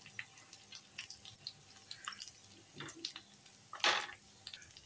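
Potato cubes and cumin seeds frying in shallow oil in a nonstick pan: sparse crackles and small pops of sizzling oil, with one short louder noise about four seconds in.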